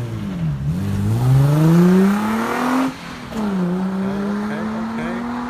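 Infiniti G35 sedan's swapped-in coupe V6 accelerating hard: the engine note climbs for about two seconds, drops sharply at a gear change about three seconds in, then pulls steadily higher in the next gear.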